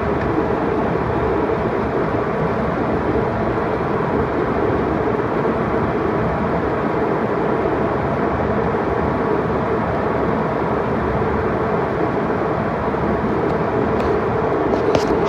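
Steady roar of an airliner's jet engines and rushing air, heard from inside the passenger cabin. There are a couple of light clicks near the end.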